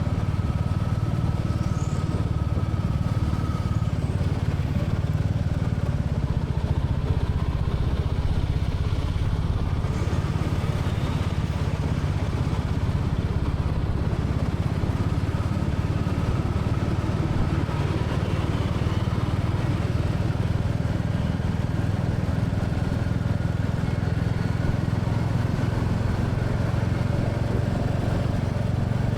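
Royal Enfield Classic 350's single-cylinder engine and exhaust running steadily while ridden.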